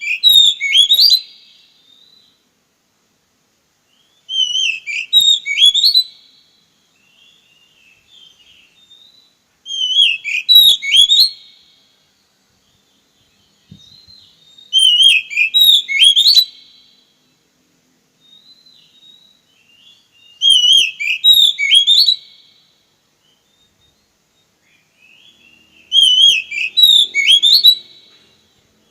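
Oriental magpie-robin (kacer) singing: the same short whistled phrase of quick rising and falling notes, about two seconds long, repeated six times about every five seconds.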